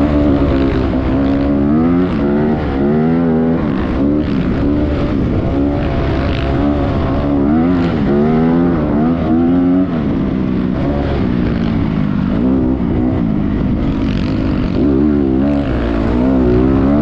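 Motocross dirt bike engine running loud, its pitch rising and falling again and again as it revs up and down.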